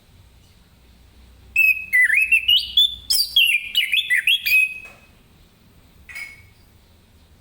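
Orange-headed thrush (anis kembang) singing: a loud phrase of quick, varied whistled notes lasting about three seconds, then one short note near the end.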